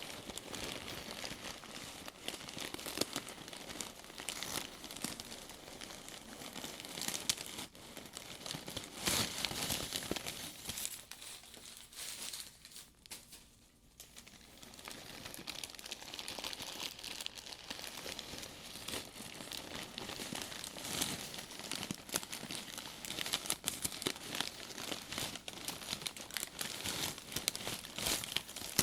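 Crumpled newspaper stuffing crinkling and rustling as hands pull it out of a faux-leather purse, in a continuous run of small crackles that eases off briefly near the middle.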